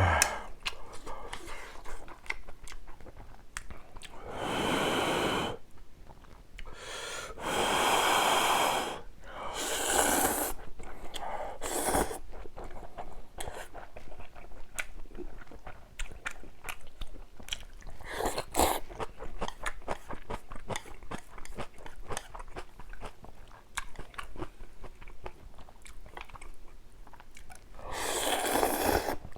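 Close-miked eating of spicy ramyun: steady wet chewing with crunchy bites. Several long noodle slurps come about four seconds in, around eight seconds, and near the end.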